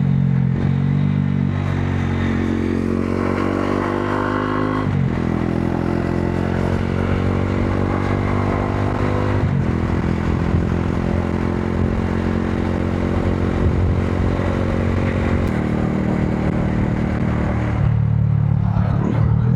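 Modenas Dominar 400's single-cylinder engine pulling hard through the gears, its pitch climbing and dropping back at two upshifts in the first ten seconds. The pitch then steps down twice near the end as the rider eases off.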